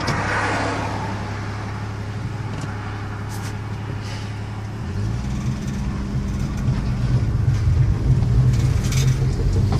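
1967 AMC Rebel's engine running steadily at low revs, then about five seconds in rising in revs and getting louder as the car pulls away in first gear.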